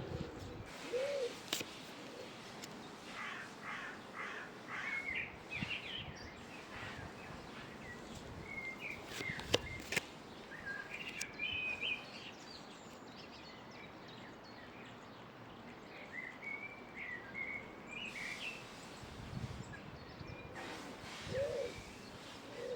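Small birds chirping on and off over a steady background hiss, with a couple of sharp clicks.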